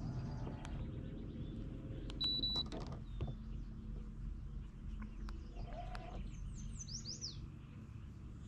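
A bird calls with a quick run of falling chirps about two-thirds of the way through, over a low steady hum. A short high beep and a few clicks come about two seconds in.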